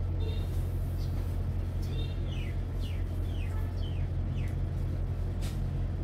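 Birds calling in a series of short chirps that fall in pitch, over a steady low hum.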